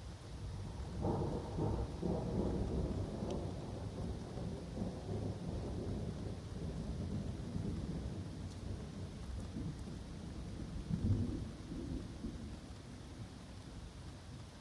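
A long roll of thunder that breaks about a second in, rumbles on for several seconds with a sharper crack near the eleventh second, then dies away, over steady rain falling in the woods.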